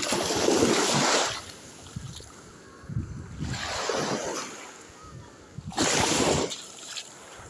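Sea waves washing in, three surges a couple of seconds apart, with wind buffeting the microphone.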